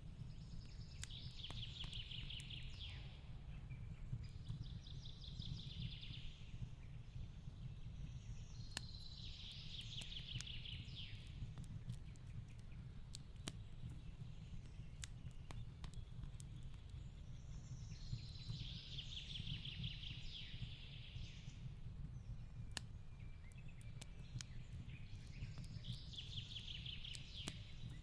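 Fireplace crackling with scattered sharp pops over a steady low rumble. A bird's trilled song repeats several times, each phrase lasting about two seconds.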